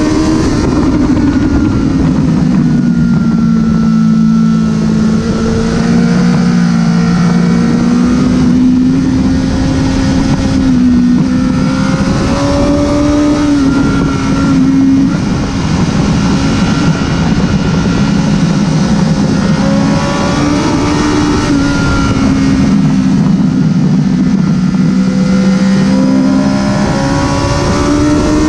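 Honda CBR1000RR inline-four sportbike engine running hard on track, its note rising and falling through the lap, under heavy wind rush.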